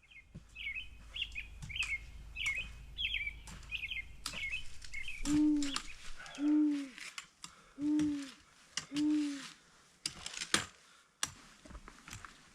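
A songbird twittering in quick, high phrases for the first few seconds, then four low, clean hoots, each about half a second long and roughly a second apart. Footsteps crunch on the forest path throughout.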